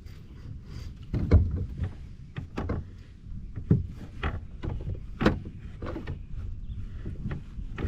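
Irregular knocks and clunks, a dozen or so at uneven spacing, over a low rumble: gear or hands bumping against a fishing kayak's hull.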